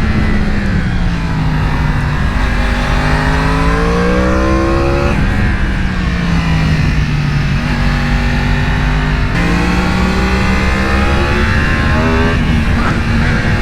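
Sportbike engine pulling hard, its pitch rising and then dropping suddenly at a gear change about five seconds in. It eases off, climbs again and jumps up in pitch about nine seconds in, with quick stepped changes near the end, over steady wind rush.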